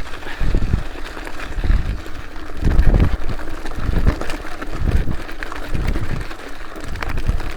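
Wind gusting on the microphone, with low rumbling thumps about once a second over a steady outdoor rush of noise.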